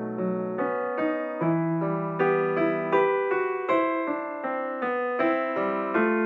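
Background piano music: a calm melody of single struck notes, each ringing and fading, over held lower notes.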